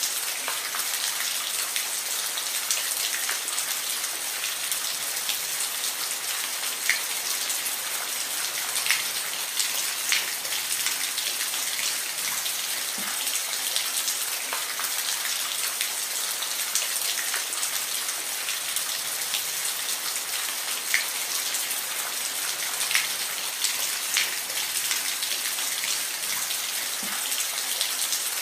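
Steady rain falling, a dense hiss with the sharper patter of individual drops hitting a surface scattered throughout.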